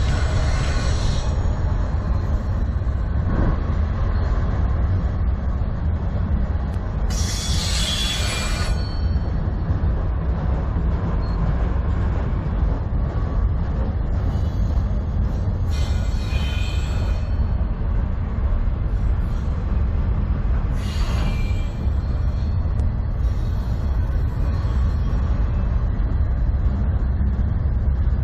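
Freight cars, autoracks and flatcars, rolling past on steel wheels with a steady low rumble and clatter. Short high-pitched wheel squeals break in three times along the way.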